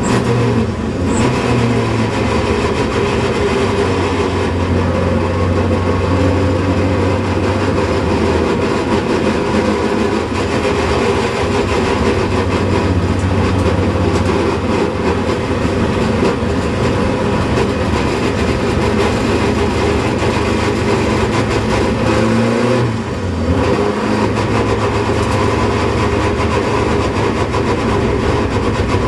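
Opel Kadett C race car's engine running hard at racing speed, heard from onboard. The engine note drops briefly just after the start and again about three-quarters of the way through as the throttle eases, then picks up again.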